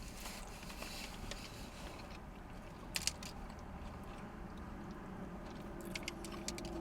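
Close-up mouth sounds of a man chewing a mouthful of Whopper burger, with a few crisp crunches about halfway through and again near the end.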